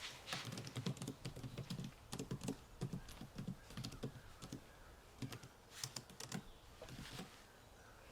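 Typing on a computer keyboard: a quick run of key clicks that stops about a second before the end.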